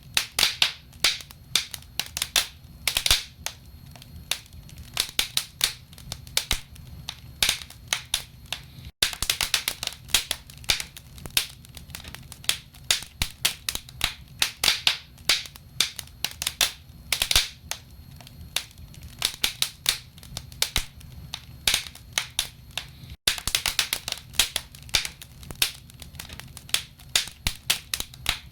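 Wood fire in a fireplace crackling, with frequent irregular sharp pops and snaps of burning logs over a low steady rumble of the flames. The sound cuts out for an instant twice.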